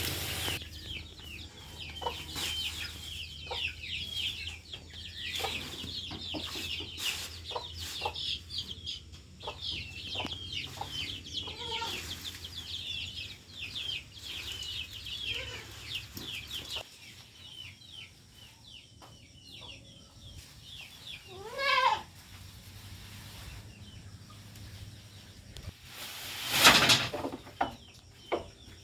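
Chickens calling: a dense stream of quick high chirping for the first half or so, then a single rising-and-falling call a little past the middle. A short loud burst near the end is the loudest moment.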